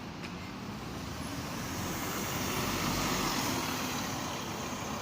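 A large vehicle passing close by. Its engine and running noise swell to a peak about three seconds in, then fade away.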